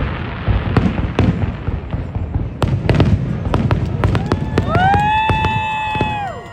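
Fireworks going off: repeated sharp bangs and crackles over a low rumble. About five seconds in, a long high tone rises, holds and then falls away.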